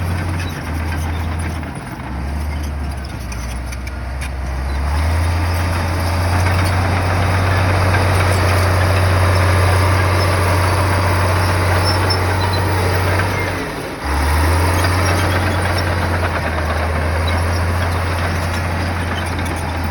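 Bulldozer's diesel engine running, with dense mechanical noise over a deep steady hum; it gets louder about five seconds in and drops out briefly just before fourteen seconds.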